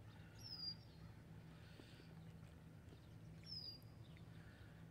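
Near silence over a faint steady low hum, broken twice by a short high bird call, about half a second in and again about three seconds later.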